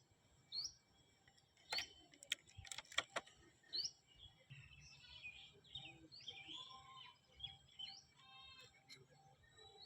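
A small bird chirping repeatedly, short high hooked chirps every second or two with some softer twittering. A few sharp clicks come close together near the start.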